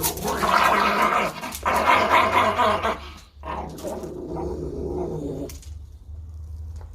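A dog growling in long, rough stretches: two loud ones in the first three seconds, then a softer one that fades out a little past the middle.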